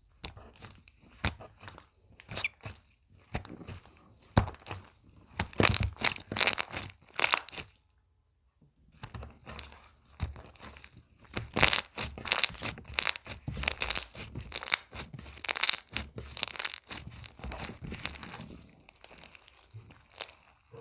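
Slime being squeezed, stretched and pressed by hand, giving dense runs of crackles and pops. The crackling stops briefly about eight seconds in, then starts again.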